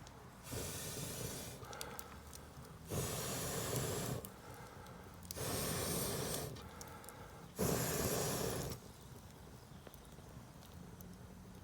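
Four long puffs of air blown onto a campfire, each about a second long and about two and a half seconds apart, with faint crackles between them.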